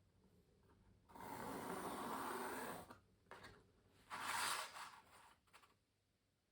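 Pencil strokes scratching on canvas: one long stroke of nearly two seconds, then a shorter, louder one about a second later.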